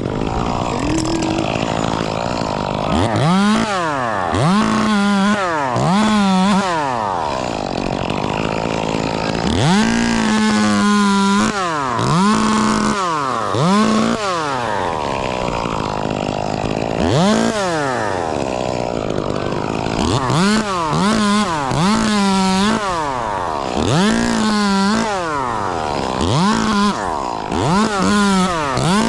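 Chainsaw revving up and cutting, then dropping back to idle, over and over, about a dozen times. Each time the engine climbs to full speed, holds briefly, and falls away. These are the cuts of a tree being pollarded.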